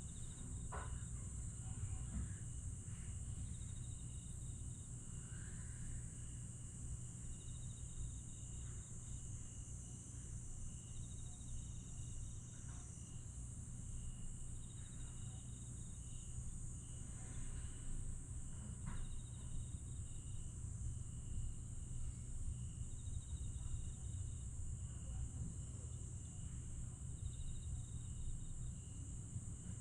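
Night chorus of crickets and other grass insects: a steady high-pitched shrilling, with short trills repeating every second or two and a thin continuous tone. The chorus sits over a steady low rumble.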